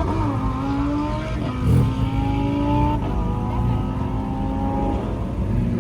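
A sports car's engine pulling away under load. Its pitch drops at an upshift just as the sound opens, then holds almost level, with a short low thump about a second and a half in.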